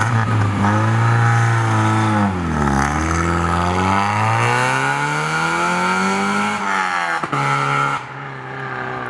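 NA Miata's four-cylinder engine running through a home-made catback exhaust with a cheap parts-store muffler, driving on the road. The engine pitch holds, dips about two and a half seconds in, then climbs steadily for several seconds under acceleration. Near seven seconds in it drops sharply, and it is quieter toward the end.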